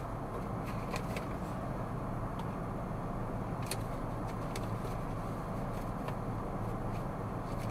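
Steady engine and road noise of a car driving, a continuous low hum with a few brief faint clicks scattered through it.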